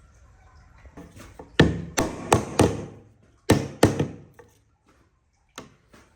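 Sharp knocks on wood, a quick run of four and then two or three more, with a faint one near the end, as from a tool striking timber.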